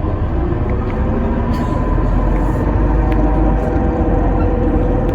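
Alexander Dennis Enviro400 MMC hybrid double-decker bus on the move: a steady low rumble from the drivetrain and road, with a few steady whining tones running over it.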